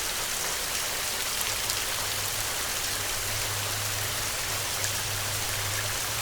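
Heavy rain falling steadily: a dense, even hiss with scattered drop ticks. A low steady rumble joins in underneath after about a second and a half.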